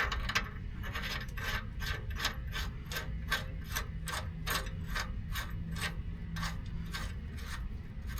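Hand tool rasping back and forth on the steel steering knuckle, in even strokes about three a second, cleaning leftover material out after the old ball joint bushing has been cut through.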